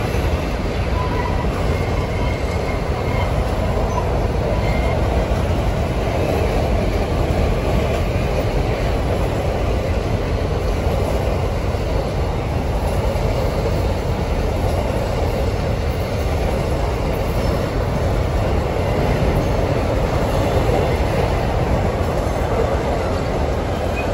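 Freight train of covered hopper cars rolling past on a curve: a steady rumble and rattle of steel wheels on rail.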